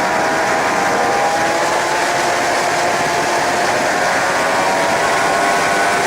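Suzuki GSX-R 750 K7's inline-four engine running at speed on track, with a steady rush of wind over it; the engine note slowly rises, then shifts near the end.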